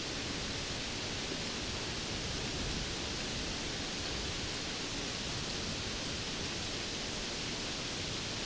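Steady, heavy rainfall: an even hiss with no single drops, thunder or changes standing out.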